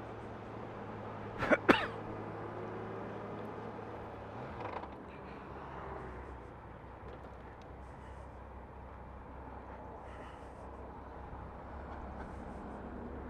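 Honda Gold Wing motorcycle riding along, its engine humming steadily with road and wind noise; the engine note falls away about four and a half seconds in. About one and a half seconds in, two loud short bursts from the rider's own voice cut through, like a sneeze.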